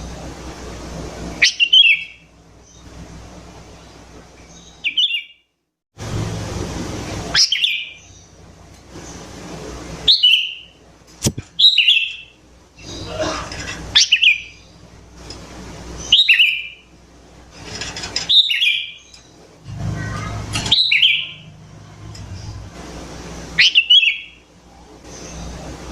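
Sooty-headed bulbul (kutilang) singing short, quick phrases that fall sharply in pitch, repeated about every two seconds.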